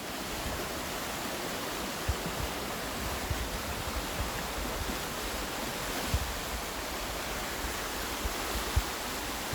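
Small, fast-flowing river rushing: a steady, even wash of water noise, with a few brief low bumps about two, six and nine seconds in.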